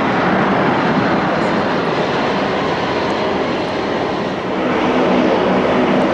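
Airliner engine noise: a steady, loud rushing noise that dips briefly about four and a half seconds in, then comes back with a steady low engine hum on top.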